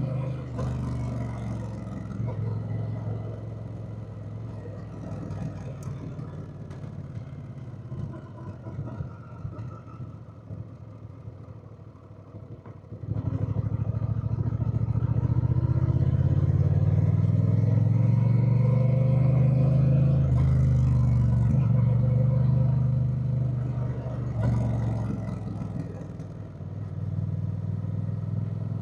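Honda Rebel 1100's parallel-twin engine under way, running lightly for the first half. About halfway it opens up sharply and pulls hard with its pitch climbing, then eases back and picks up again near the end.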